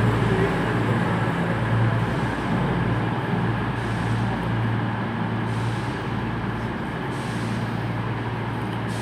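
Class 220 Voyager diesel multiple unit's underfloor diesel engines running with a steady low drone as the train draws into the platform, slowly fading.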